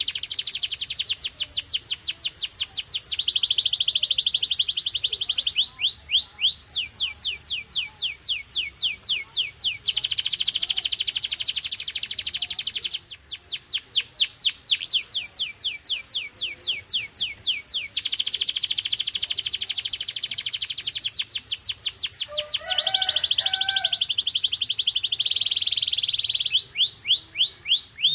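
Canary singing a continuous song of rolls: runs of rapid repeated down-slurred notes alternate with sustained, dense high trills. There is a brief lower two-note phrase a few seconds before the end.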